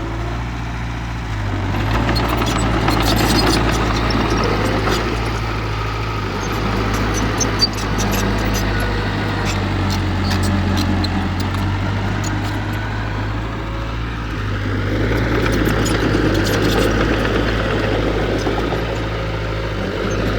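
Heavy diesel engine of earthmoving machinery running steadily. It swells twice as it works under load, with a single sharp knock about seven and a half seconds in.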